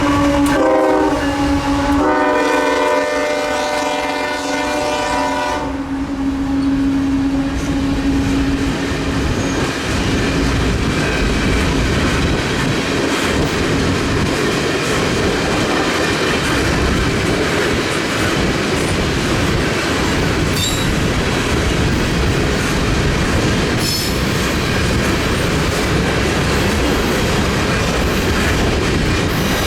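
A freight train's diesel locomotive sounds its multi-note air horn, a short blast and then a longer one of about four seconds. The train then rolls past with a steady rumble and the clatter of wheels over the rails, and a faint wheel squeal comes in near the end.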